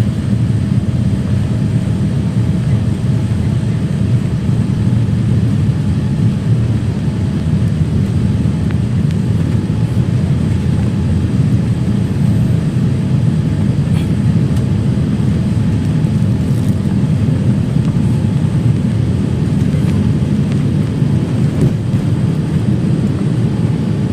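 Steady low rumble of engine and airflow noise inside a Boeing 787-9 airliner's cabin in flight.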